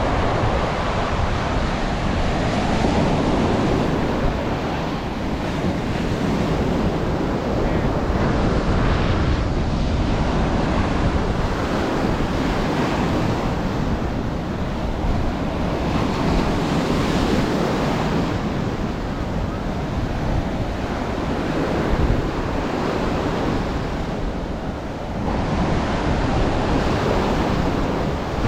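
Ocean waves breaking and washing up the shore, with wind buffeting the microphone in a steady low rumble.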